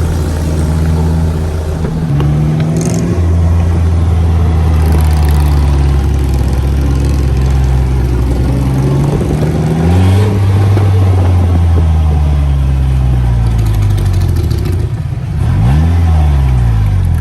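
Car engine running under changing load, its pitch climbing and dropping several times as it speeds up and slows down.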